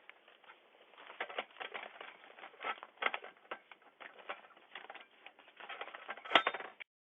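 A run of irregular clicks and crackles, with one sharp, loud click near the end, after which the sound cuts off abruptly.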